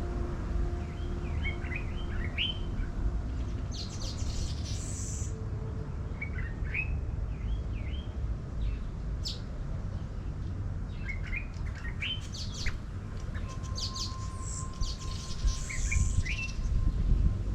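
Small birds chirping in short clusters of quick rising notes, with some higher buzzy calls among them, coming every few seconds over a steady low rumble of background noise.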